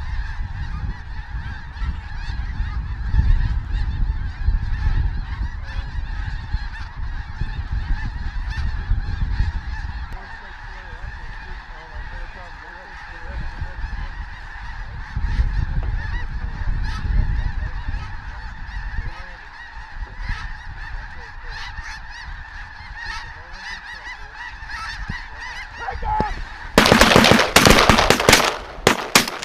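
Dense, continuous chorus of snow geese calling, with gusts of wind rumbling on the microphone. Near the end comes a rapid cluster of loud, sharp bangs.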